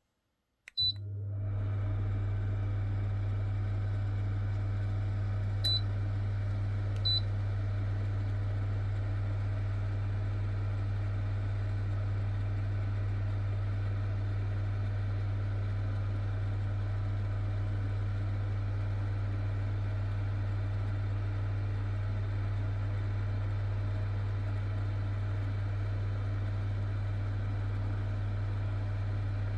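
A 2 kW wall-mounted electric fan heater switching on with a short high beep, then running steadily: a strong low hum under an even fan whoosh. Two more short beeps from its controls come about six and seven seconds in.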